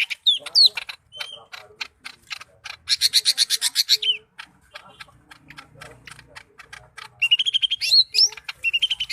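Cucak ijo (green leafbird) singing a varied, imitation-filled song: short rising whistles at the start, a fast rattling trill about three seconds in and another near the end, with sharp clicking notes between.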